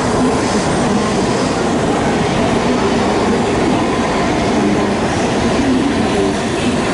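Shinkansen bullet train moving alongside the platform: a steady, loud rumble of wheels and running gear.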